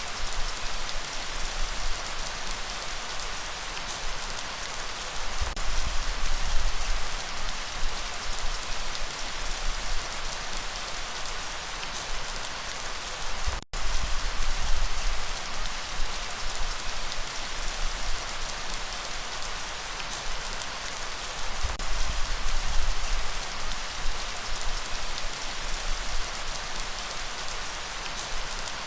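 Steady, heavy rain falling and pattering on surfaces, a dense even hiss. The sound cuts out for an instant about halfway through.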